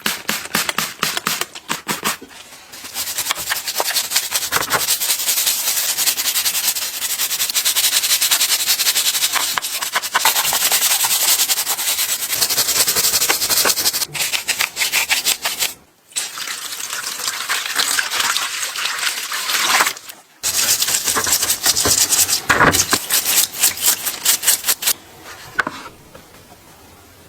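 Rapid, dense scraping and rubbing, like something being brushed or sanded hard, in long stretches that stop abruptly twice along the way and die away near the end.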